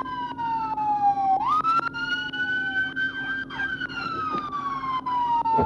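Police car siren wailing: its pitch glides slowly down, jumps back up about a second and a half in, climbs, and slowly falls again. Other sirens sound faintly underneath.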